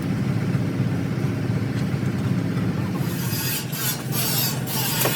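A steady, low mechanical drone of an engine or machine running. About three seconds in, a hiss joins it and briefly cuts out a few times.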